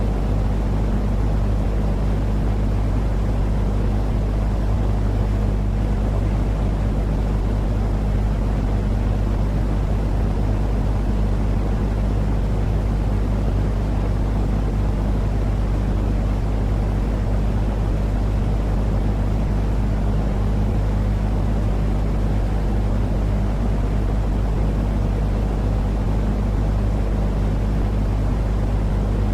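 Continuous white-noise track for soothing babies to sleep: a steady, unchanging deep rumbling hiss with a low drone under it.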